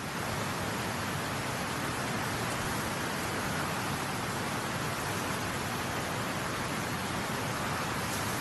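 Mountain stream rushing steadily over rocks, an even hiss of flowing water.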